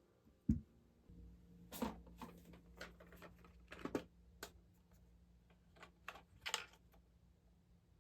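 Scattered light clicks and taps of small tools and guitar hardware being handled, with a low thump about half a second in. A faint steady low hum runs under it from about a second in.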